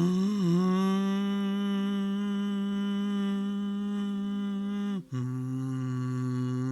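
A person's voice humming or toning in long sustained notes: it slides up into a higher note that is held steady for about five seconds, breaks briefly for breath, then settles back onto a lower held note.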